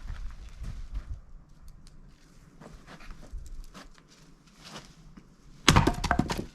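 An axe blow into a log for firewood, near the end: a loud sharp strike followed at once by a quick run of knocks. Before it, light scattered knocks and footsteps.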